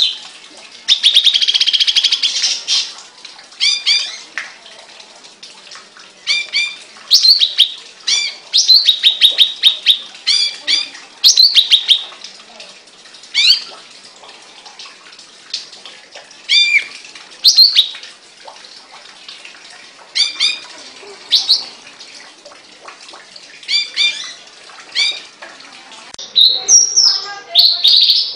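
Caged songbird singing: short, sharp chirped and whistled phrases repeated every second or two with brief pauses, including a rapid buzzy trill about a second in and a denser run of phrases near the end.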